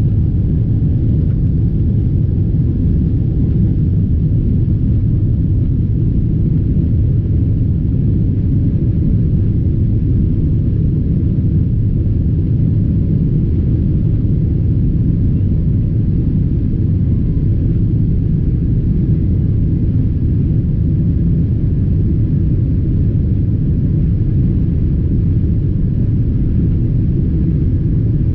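Steady low rumble of a tour boat under way, its engine running at an even speed.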